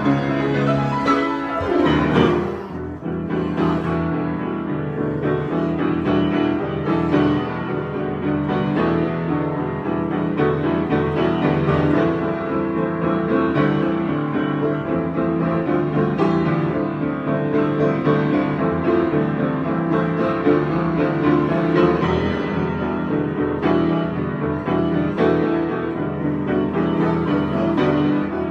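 Solo piano improvisation, notes and chords played continuously with sustained overlapping tones.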